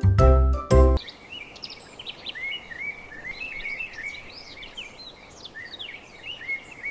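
Songbirds chirping in quick, short rising and falling calls over a faint steady background hiss. A bright children's music jingle cuts off about a second in, just before the birdsong.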